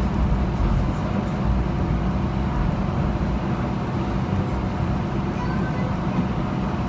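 First-generation Hong Kong Light Rail car running between stops: a steady rumble of wheels on rail, with a faint even hum.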